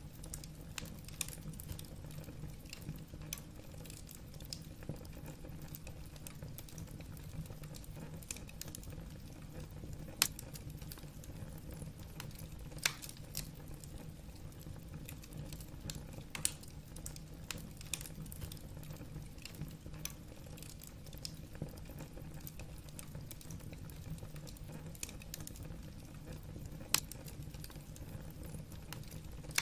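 Wood fire burning in a fireplace, logs crackling with irregular sharp pops over a low, steady rumble of the flames; a few pops stand out louder than the rest.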